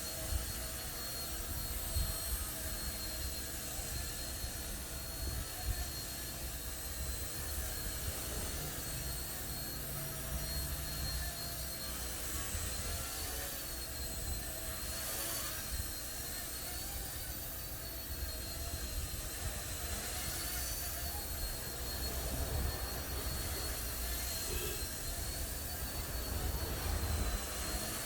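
Small electric RC helicopter flying: a steady high motor-and-rotor whine that wavers slightly in pitch as the throttle changes, over a low rumble.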